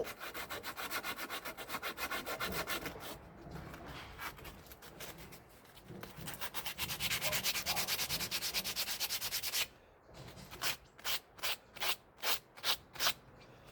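Hand scrubbing strokes on a corroded metal car part to clean the rust off: fast, even back-and-forth scraping for most of the time, stopping about ten seconds in, then several slower single strokes.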